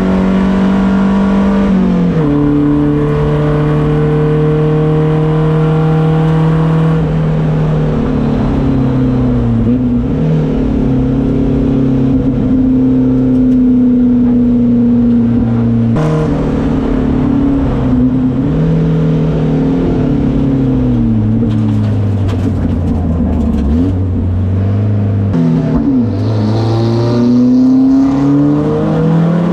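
Volvo 240 race car engine heard from inside the car on track, its note holding steady on long pulls, then dropping and rising again with several gear changes. A sharp knock about 16 seconds in.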